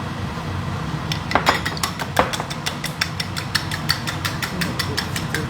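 Rapid, regular kitchen tapping, about six sharp clicks a second, starting about a second in, over a steady low hum.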